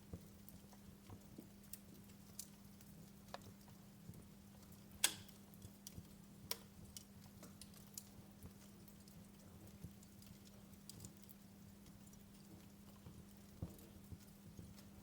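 Wood fire in a fireplace crackling: scattered sharp pops at irregular intervals, the loudest about five seconds in, over a faint steady low hum.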